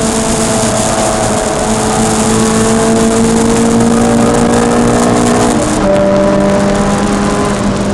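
Peugeot 306 Rallye's four-cylinder engine pulling hard on a race track, heard from inside the cabin with road and wind noise. Its note climbs slowly for about five and a half seconds, then drops lower about six seconds in and holds steady.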